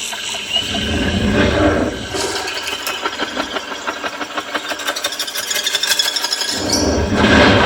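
Rattling and rubbing, then about seven seconds in a low engine rumble starts up and keeps running: the Maruti Suzuki Grand Vitara's petrol engine starting.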